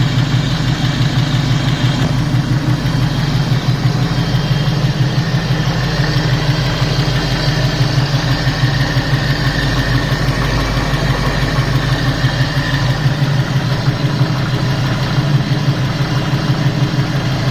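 Ford 351 Cleveland V8 idling steadily, with a ticking from the passenger side of the engine.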